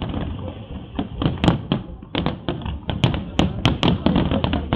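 Fireworks display: aerial shells bursting overhead in a quick, irregular run of bangs and crackles, with a brief lull about two seconds in.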